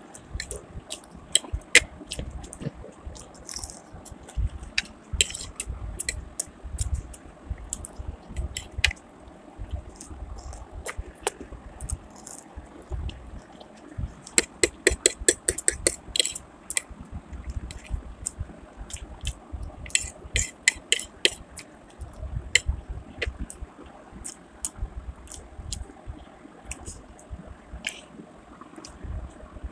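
A person chewing and smacking a mouthful of chow mein noodles and chicken pakoras close to the microphone: wet mouth clicks and squishes, with a quick run of clicks about halfway through.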